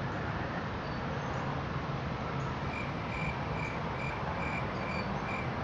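A train of short, high, evenly spaced chirps, about two and a half a second, begins about halfway through over steady background noise with a low hum.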